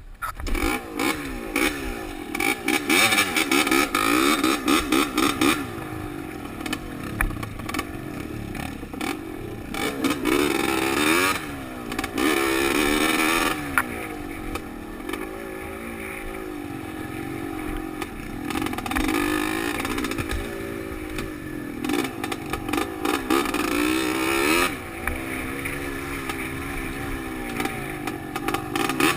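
Dirt-bike engine ridden along a trail, its pitch rising and falling over and over as the throttle opens and closes, picked up by a helmet-mounted camera.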